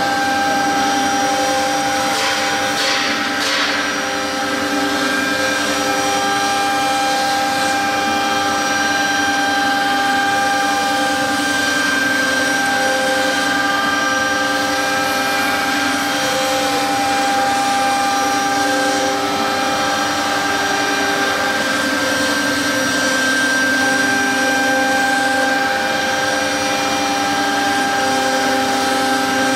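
The 3.5 kW air-cooled spindle of a 1325 CNC router running and cutting fiber board: a steady whine of several held tones over the noise of the cut.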